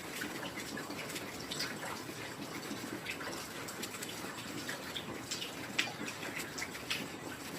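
Steady heavy rain, with individual drops striking close by throughout and a couple of louder drops late on.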